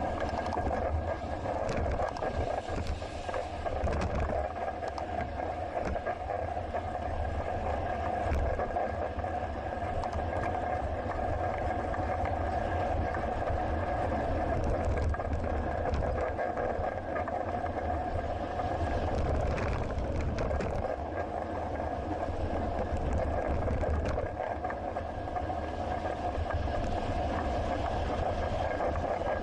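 Steady riding noise from a bicycle-mounted action camera: low road and wind rumble with a constant hum and a few faint clicks, over distant city traffic.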